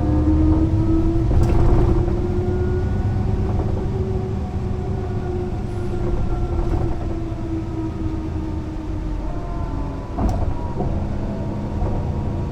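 Mercedes-Benz O 405 NÜ bus's diesel engine and drivetrain running under way, the pitch rising a little in the first few seconds and then slowly easing off. A knock or rattle is heard about a second and a half in and again near the end.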